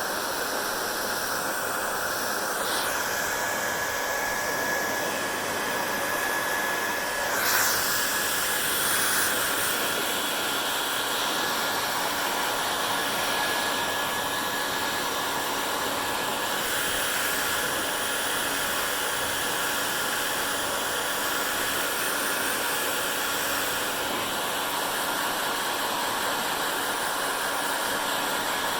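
Hair dryer running steadily while drying hair: an even rush of blowing air with a faint steady whine. The rush swells briefly about a quarter of the way in.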